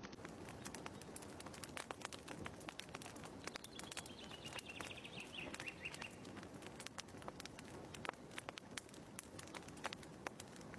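Faint crackling of a wood fire in a fireplace: irregular sharp pops and snaps over a low steady rustle. About four seconds in, a bird gives a short falling chirping trill lasting about two seconds.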